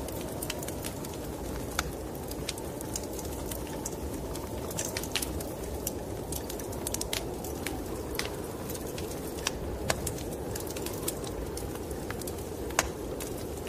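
Wood fire crackling in a fireplace, with irregular sharp pops, over a steady low rumble of snowstorm wind.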